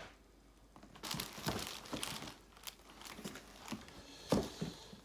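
Packaging crinkling and rustling in irregular bursts as a new boot is handled in its box, with a sharper crackle near the end.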